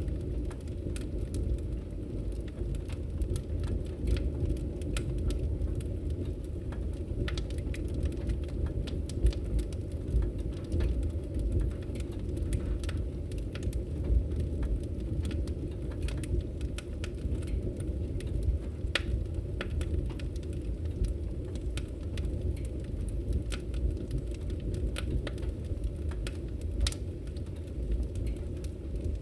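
Wood fire burning in a fireplace: a steady low rumble of flames with frequent scattered crackles and pops from the burning logs.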